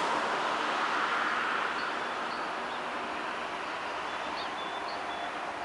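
Small birds chirping in short repeated calls over a broad, steady rushing noise that slowly fades.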